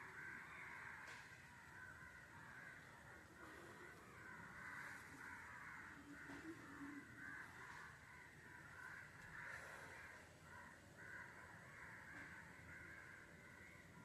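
Faint, continuous chatter of many birds calling at once, a dense overlapping chorus without pause.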